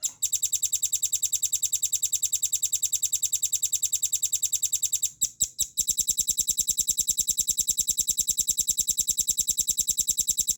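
Velvet-fronted nuthatch (red-billed rambatan) giving a fast, even trill of high, sharp notes, about nine a second. The trill breaks briefly about five seconds in, resumes, and stops abruptly near the end.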